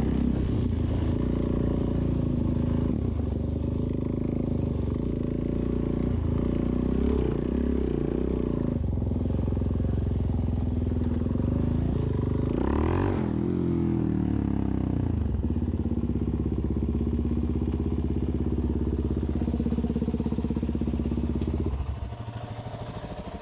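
Suzuki DRZ400S single-cylinder four-stroke engine running under way, a steady drone that dips and climbs in pitch a few times, most clearly about halfway through. The engine sound falls away near the end.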